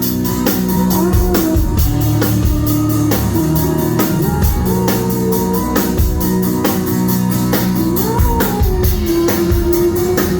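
Live rock band playing loudly: a drum kit keeping a fast, steady cymbal beat under guitars and a wavering melody line, recorded on a phone in the crowd.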